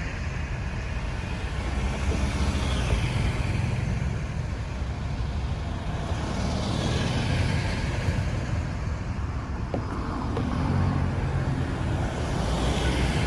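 Road traffic: a steady low rumble of engines and tyres, with vehicles passing one after another, swelling and fading about three times.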